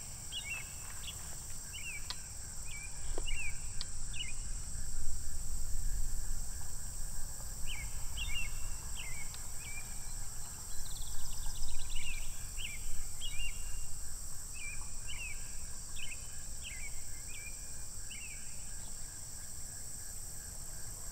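Outdoor ambience: a bird giving short, sharp chirps in two long runs of rapid repeats, over a steady high insect drone. Wind rumbles on the microphone, swelling twice.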